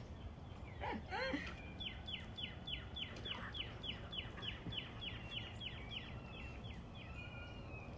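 A bird singing a fast, even series of high downslurred chirps, about four a second, ending on a held note, after a few brief lower gliding calls about a second in.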